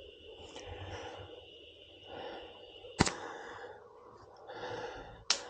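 Two sharp knocks, about two seconds apart, over faint handling noise while the tyre is worked on.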